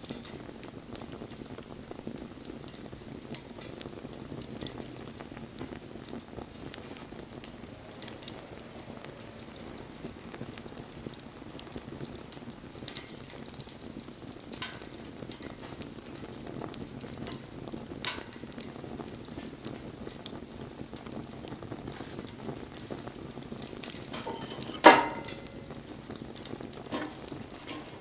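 Wood fire burning: a steady hiss of flames with scattered crackles and pops, and one loud crack near the end.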